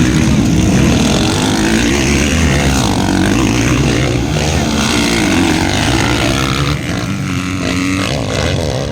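Several motocross bikes racing, their engines revving up and down with overlapping rising and falling pitches, easing off somewhat near the end.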